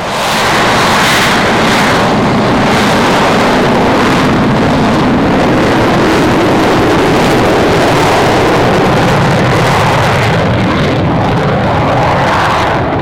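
Aircraft engines at takeoff power as a plane departs: a loud, steady rush of engine noise that comes in sharply at the start and holds throughout.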